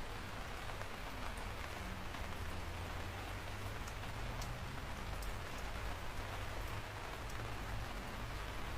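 Steady rain falling: an even hiss with scattered sharp drop ticks and a low rumble underneath.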